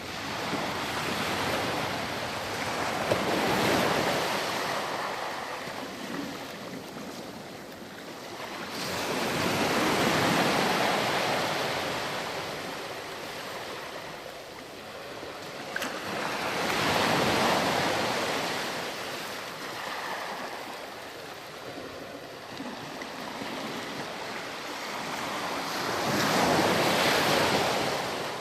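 Ocean waves breaking and washing up on a beach, the surf swelling and falling away about every seven seconds, four times.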